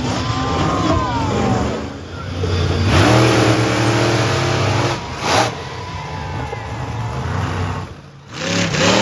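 Monster truck engine revving hard, its pitch climbing and dropping again several times, with sudden loud bursts of noise about five seconds in and near the end.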